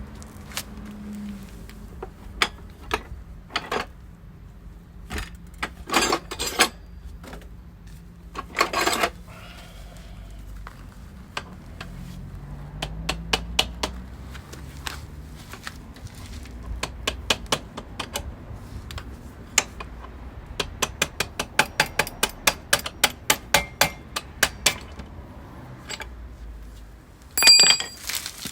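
Metal hand tools and parts clinking and knocking during motorcycle wheel and bearing work: scattered knocks, then a run of quick, even clicks for several seconds, and a loud ringing metal clank near the end.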